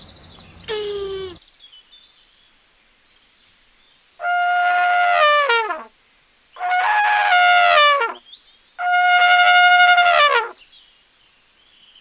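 An elephant trumpeting three times, each call held on one high pitch for a second or two and then dropping away at the end. A short falling cry ends about a second in.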